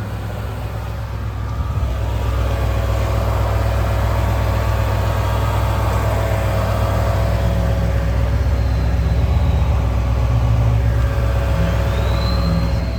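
Motor vehicle engine idling with a steady low hum, growing louder about two seconds in. A thin rising whine comes in near the end.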